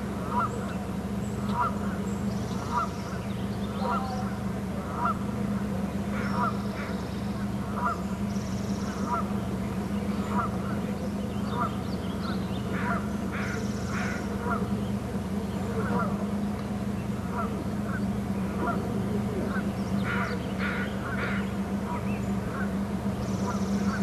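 A bird giving short calls in a steady series, a little faster than one a second, with brief flurries of higher, quicker notes about 13 seconds in and again about 20 seconds in.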